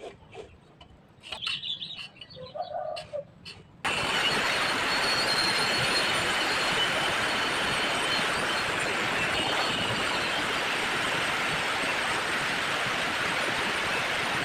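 Electric welding arc on iron striking about four seconds in, then burning with a loud, steady hiss.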